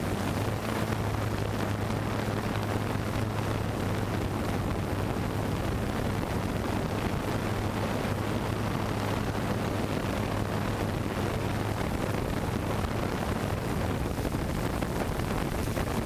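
Steady rushing noise from a camera drone in flight, its propellers and the airflow over its onboard microphone, with a low steady hum that weakens about twelve seconds in.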